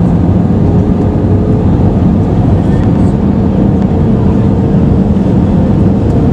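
Airbus A320-214 cabin noise with the CFM56 engines running: a loud, steady roar of engines and airflow with a faint steady hum underneath.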